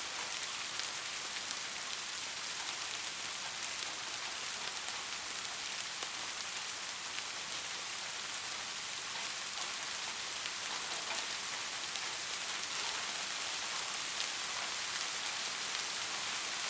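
Steady rain: an even hiss of falling rain with many small, separate drop ticks through it.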